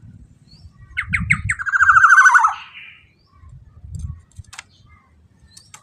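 Black-naped oriole (golden oriole) calling: a few quick falling notes, then a loud, harsh, rapid rattle lasting about a second. A single sharp click comes later, over a low rumble.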